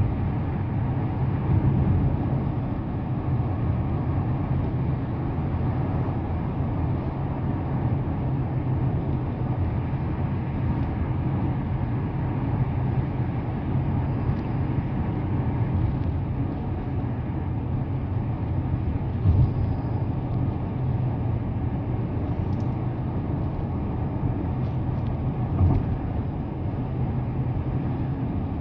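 Car driving at a steady pace: a continuous low rumble of tyre and road noise with the engine underneath, broken by a few brief knocks in the second half.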